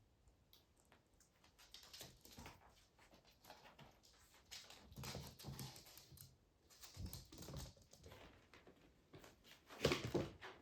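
Kittens playing and scrabbling on a hard surface: faint, irregular light taps and rustles in clusters, with the loudest flurry near the end.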